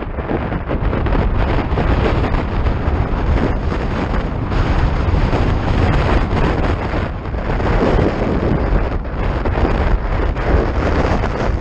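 Strong wind buffeting the microphone in uneven gusts, over the noise of rough, storm-driven surf.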